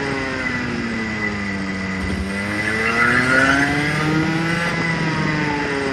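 Rotax Junior Max 125 two-stroke go-kart engine under run-in. Its revs fall as the throttle is backed off, climb again from about two seconds in, then drop once more near the end. This is the new engine being cycled between about 6,000 and 10,000 RPM to run it in.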